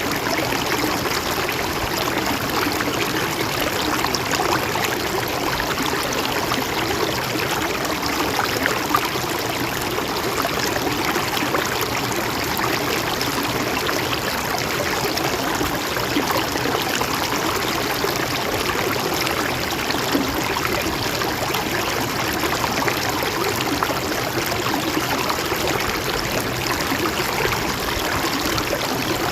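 A mountain stream flowing and trickling steadily over rocks.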